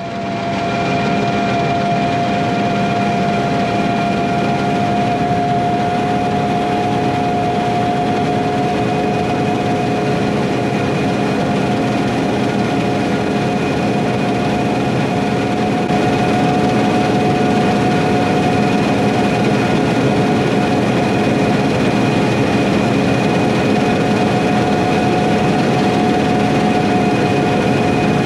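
Harvest machinery running steadily in the wheat field: a constant engine drone with a steady high whine through it, stepping slightly louder about sixteen seconds in.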